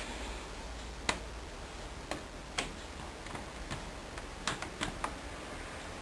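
Sharp clicks from the control panel of a Hoover Dynamic Wash washing machine, about nine at uneven intervals with a quick run of them near the end, over a faint steady low hum.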